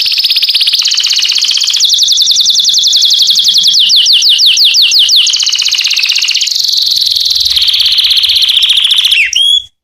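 Domestic canary singing an unbroken song of rapid, high trills that switch from one trill type to the next every second or two, with a run of slower sweeping notes in the middle. It cuts off suddenly near the end.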